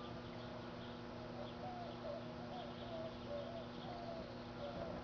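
Microwave oven running: a steady, faint electrical hum, with a string of short warbling chirps over it from about a second and a half in.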